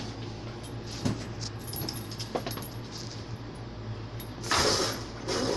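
Dogs play-fighting, with light metallic jingling and clicking throughout, typical of collar tags, and a loud rush of noise about four and a half seconds in.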